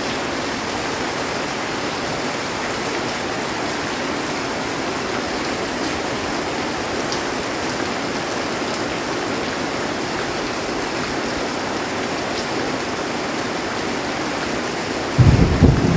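Heavy rain drumming steadily on a metal roof, an even hiss. About fifteen seconds in, a loud, low rumble of thunder breaks in.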